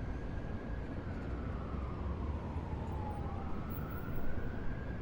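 Emergency vehicle siren in a slow wail, its pitch rising and falling about once every four seconds, over a steady low rumble.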